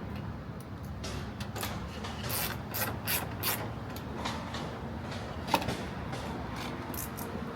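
Rubbing and scraping of plastic trim being worked off a car body, with scattered clicks and one sharp snap about five and a half seconds in, over a low steady hum.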